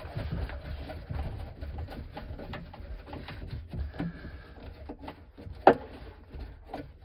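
Screw being driven by hand with a screwdriver: scattered small clicks and scraping of metal, with one brief louder squeak a little over halfway through.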